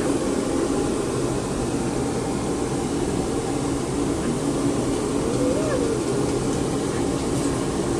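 Hair dryer running steadily with a constant blowing hum.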